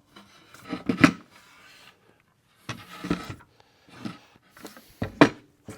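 Clamps being loosened and taken off a glued-up walnut board: a handful of separate wooden and metal knocks and clatters, about four in all, with short quiet gaps between.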